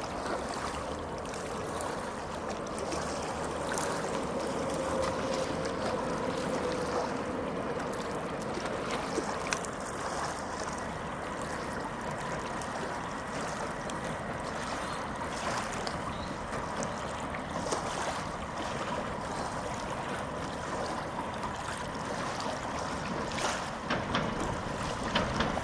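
Electric tram running along the track: a steady rumbling noise with a faint whine from the traction motors that slides down in pitch a few seconds in, and scattered short clicks from the wheels on the rails.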